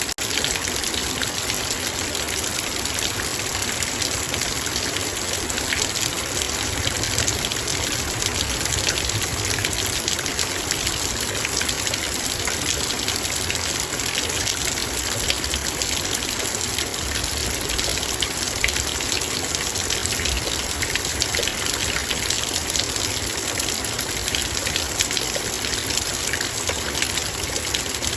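Heavy rain falling steadily on a metal bowl: a dense, even rush of rain with many fine ticks of single drops striking the metal.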